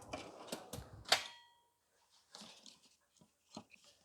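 Metal tools and parts clinking and clattering during engine-installation work. One sharp clink about a second in rings briefly, like a metal tool or part striking metal, followed by a few faint clicks.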